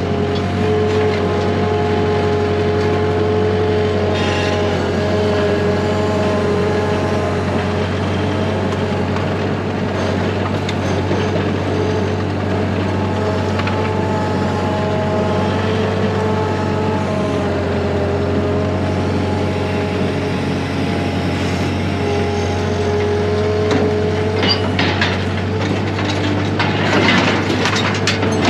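An engine or motor running steadily, with a constant low drone and a pitch that wavers slightly; a few sharp knocks come near the end.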